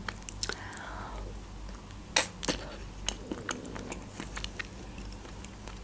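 Close-up chewing of a bite of chocolate-coated ice cream bar: soft mouth sounds with scattered small clicks, and two sharper cracks a little over two seconds in.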